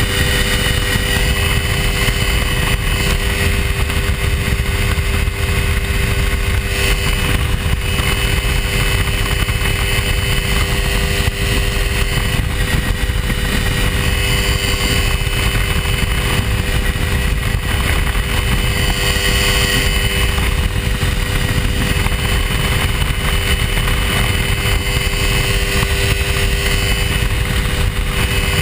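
Hy-Tek Hurricane ultralight's engine running steadily in flight: a loud, even drone with a steady pitch that does not rise or fall.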